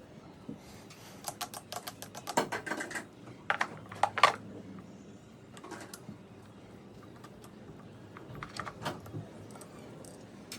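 Irregular clicks, taps and light knocks of small hard objects being handled, with a dense cluster of sharper knocks from about one to four and a half seconds in and a few more near the end.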